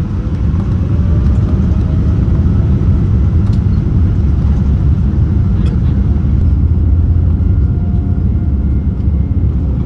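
Loud, steady low rumble of a Boeing 787-9's Rolls-Royce Trent 1000 engines and airframe, heard from inside the cabin, with a faint rising whine in the first few seconds.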